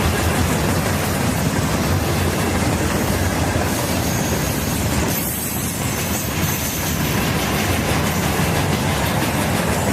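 Norfolk Southern train rolling past close by, a steady loud rumble of steel wheels on the rails, easing slightly about five seconds in.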